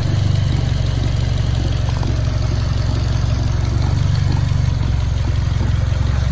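Turbocharged four-cylinder engine of a Mitsubishi Lancer Evolution X idling steadily while it smokes from oil leaking out of the turbo onto the exhaust.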